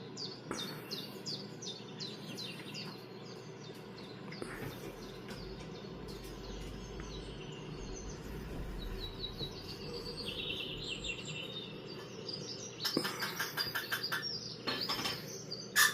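Birdsong playing from a bird video on a computer's speakers: a run of quick repeated high chirps at first, more chirping about ten seconds in, and louder bursts of chirps near the end.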